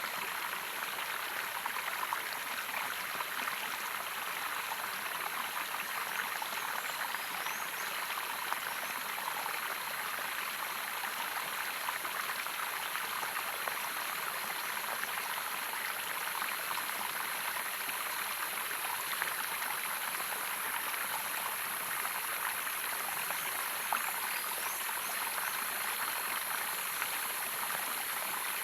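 Waterfall water running steadily, an even, unbroken rush and splash.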